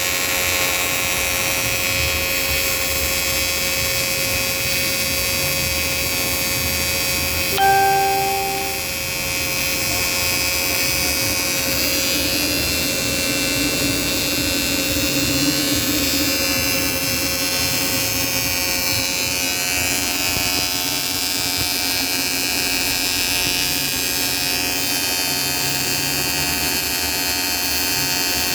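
RONCH RAPTOR R350 AC/DC TIG welder with its water cooler running, a steady electrical hum with a buzz. A short beep sounds about eight seconds in.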